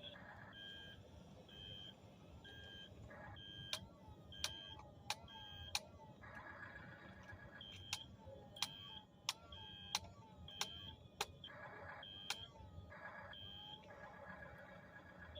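Electronic beeping from a Double E remote-control toy track-type tractor's sound effects: short high beeps repeat about once a second, with a run of sharp clicks about every 0.7 seconds through the middle.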